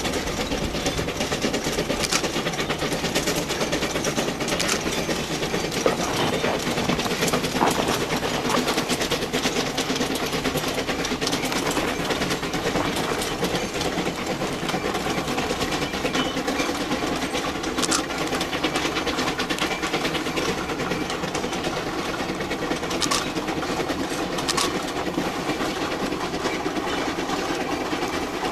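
C2 narrow-gauge steam locomotive and its train running: a steady, dense rapid clatter with occasional sharper clanks.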